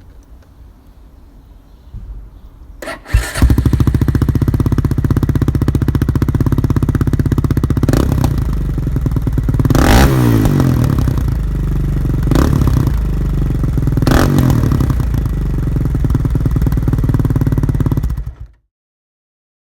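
Triton 450 Supermoto quad engine breathing through an EXAN stainless steel slip-on exhaust with its dB killer removed. It is started about three seconds in, idles, is blipped four times, and is switched off near the end.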